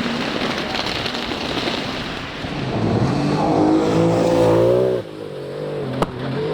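Rally car on a gravel stage passing at speed: a hiss of tyre and surface noise, then the engine revving up hard for a couple of seconds before cutting off sharply about five seconds in and climbing again, with a sharp click near the end.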